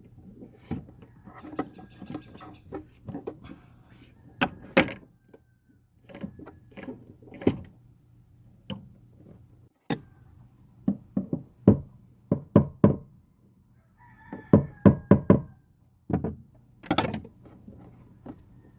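Irregular knocks, clicks and clatters of hand work with tools and parts, some in quick runs of several strikes, over a faint steady low hum.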